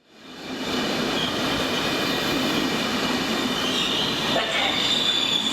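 Passenger train running on rails: a steady rolling rumble, with a high-pitched wheel squeal that grows stronger about four seconds in.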